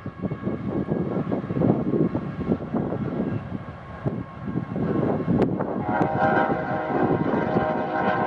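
Grain train's covered hopper cars rolling over a steel trestle bridge, wheels clattering unevenly, with a sharp clank about five seconds in. From about six seconds a train horn sounds a steady chord over the rolling noise.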